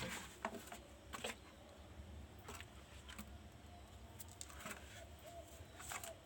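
Faint, scattered small clicks and taps of parts being handled, with a thin warbling call in the background from about five seconds in.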